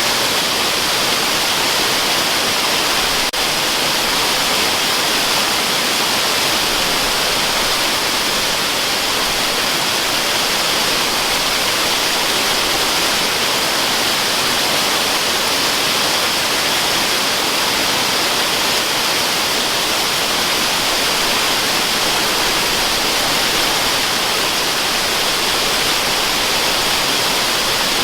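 Waterfall: a steady, even rush of falling water with a hissing top, holding one level throughout.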